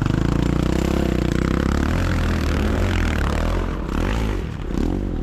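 Racing sidecar motocross motorcycles, several engines running hard at once, their pitches rising and falling as they go by, with a brief dip about four seconds in.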